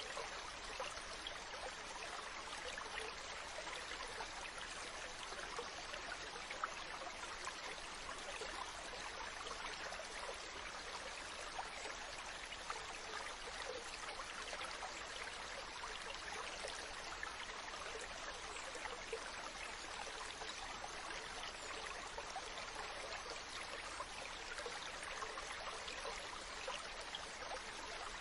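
Mountain stream running over rocks: a steady rush of flowing water with a fine, constant babble.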